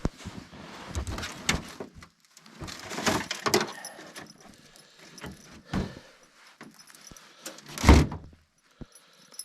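Gear being rummaged and handled, with rustling and metallic jingling like wire snares clinking, and one heavy thump about eight seconds in.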